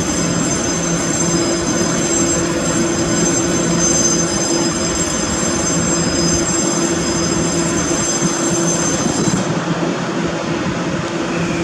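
Taiwan Railways EMU800 electric commuter train pulling into a station: a steady rumble of the train rolling along the platform, with several high thin whines over it that cut off about nine and a half seconds in.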